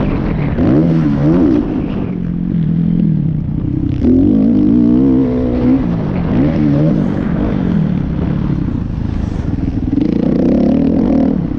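Motocross bike engines revving, their pitch rising and falling over and over as the throttle is opened and shut.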